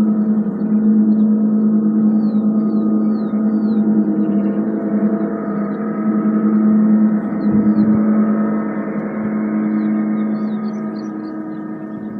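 A sound-bath gong ringing on, a steady low tone with many overtones and a gently wavering level. Short high bird chirps come in a quick run about two seconds in and again near the end.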